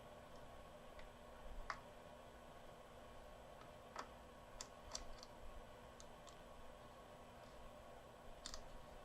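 Faint, scattered small clicks and taps against quiet room tone, about a dozen, with a slightly louder cluster around four to five seconds in: multimeter probes and small parts being handled on a workbench.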